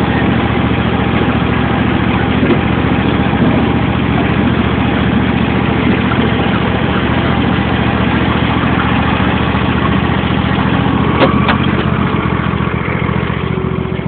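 Riding lawn tractor's engine running steadily, with a brief click about eleven seconds in.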